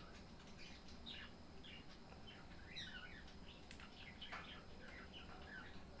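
Small pet bird chirping faintly: a running string of short, varied chirps, about two a second, with one longer wavering call midway.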